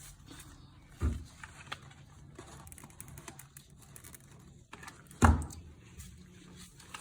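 Quiet handling noise from working coir (coco-peat) sheet onto a cardboard cone: light scattered clicks and rustles, with two dull thumps, one about a second in and a louder one about five seconds in.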